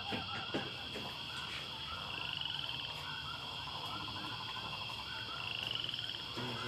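Outdoor animal chorus: a steady high drone with many small repeated chirps, and a rapid rattling trill about two seconds in and again near the end.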